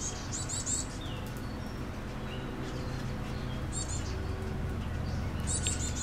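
Small birds chirping in short bursts of rapid, high chips, three or four clusters a few seconds apart, with a faint falling whistle early on, over a steady low hum.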